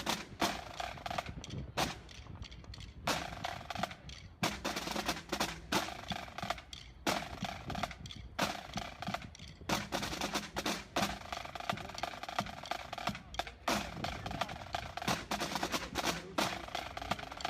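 A rapid, irregular series of sharp bangs and cracks.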